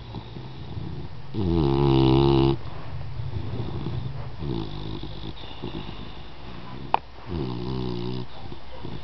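Dog snoring in deep sleep: a drawn-out, pitched snore on each breath roughly every three seconds, the loudest about two seconds in, with softer breathing between. A short sharp click comes about seven seconds in.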